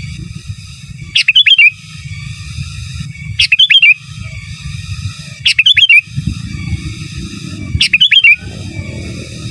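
Sooty-headed bulbul (kutilang) singing a short, loud phrase of a few quick whistled notes, repeated about every two seconds, four times, over a steady low rumble.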